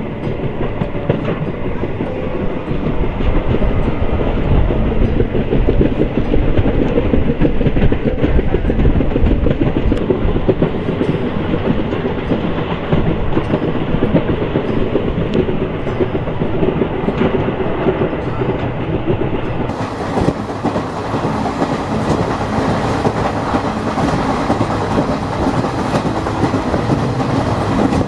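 Passenger train running along the track: a steady rumble with the rhythmic clatter of the wheels over the rails.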